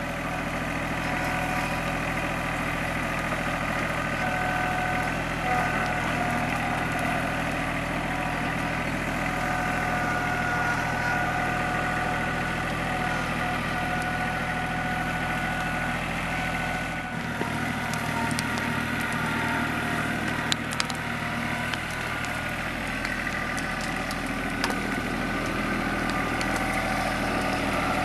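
Engine idling steadily, its low hum shifting a little about two-thirds of the way through, with a few sharp clicks near the end.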